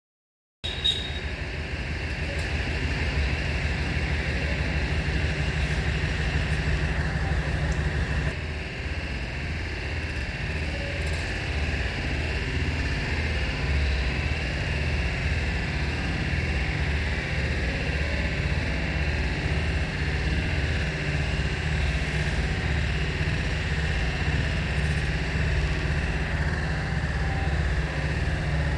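An engine running steadily with a low pulsing throb. It starts abruptly and dips slightly about eight seconds in.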